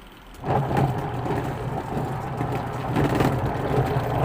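Washing machine motor and faulty gearbox running noisily with a steady low hum, picking up again after a brief lull about half a second in. The gearbox is the part the repairer blames for the noise and for the pulsator's slow turning.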